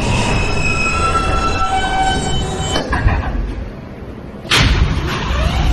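New York subway J train braking to a stop, its wheels squealing in several high steady tones over the rumble, which die away about three seconds in. A loud thump comes near the end as the car doors open.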